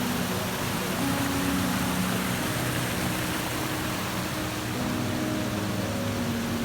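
Steady rushing water of a tall artificial waterfall, with soft sustained music notes changing slowly underneath.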